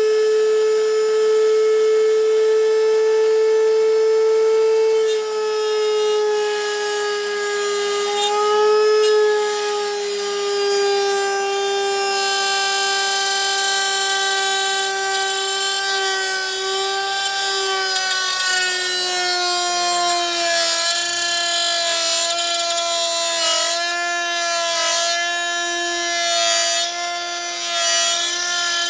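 Router in a router table running with a high, steady whine, its pitch sagging and wavering as the bit is loaded cutting glass slots into wooden picture-frame pieces. The rasp of the cut wood is added from about six seconds in.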